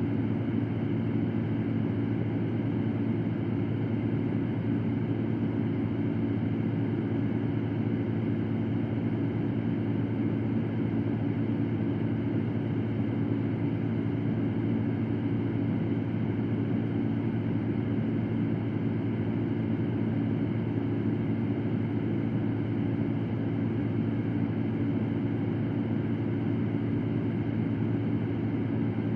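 Electric fan running steadily: an even whooshing hum with a low drone, unchanging throughout.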